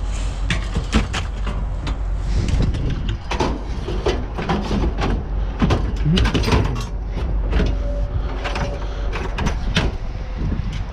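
Repeated knocks, clanks and rattles of scrap being handled and shifted, over a steady low rumble of wind on the microphone.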